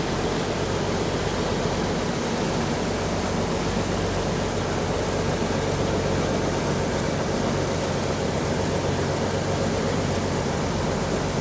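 Khlong Saen Saep express boat under way: its diesel engine drones steadily under an even rushing noise of wind and water.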